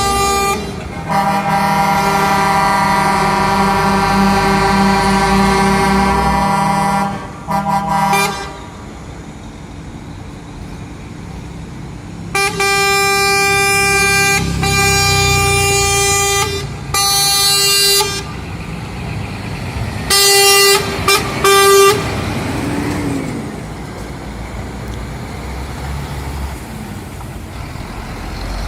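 Truck air horns sounding several notes at once. A long blast comes first, then a series of shorter blasts, then a few quick toots, with diesel engine rumble underneath.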